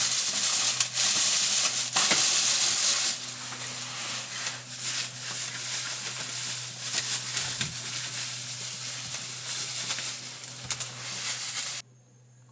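Food sizzling in a hot pan, loudest for the first three seconds and then settling into a quieter sizzle, cut off abruptly near the end.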